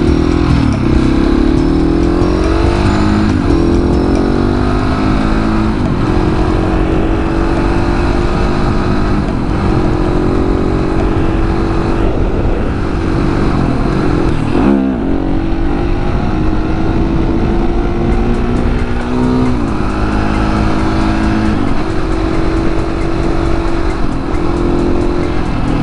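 701 supermoto motorcycle's single-cylinder engine pulling hard through the gears, its pitch climbing and dropping back at each shift, with one sharp dip and recovery about halfway through. Wind rumble on the microphone runs underneath.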